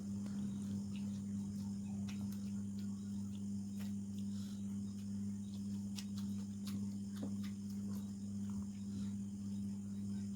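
Scattered small clicks and wet mouth sounds of someone chewing a meal of chicken and rice, over a steady low electrical hum.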